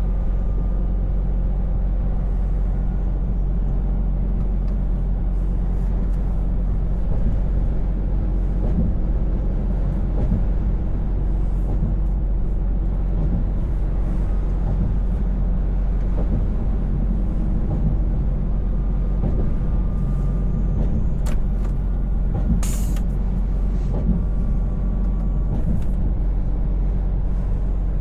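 Scania V8 truck engine running steadily under way, a low even drone with road noise. A short sharp hiss sounds once, about three-quarters of the way through.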